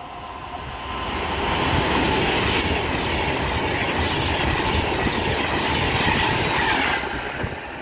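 Class 390 Pendolino electric train passing the platform: a rushing wheel-and-rail and air noise that builds over about the first two seconds, holds steady, then eases off near the end.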